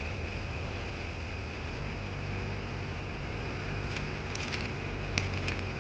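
Steady background hiss with a low hum and a faint high-pitched buzz, with a few light clicks in the second half.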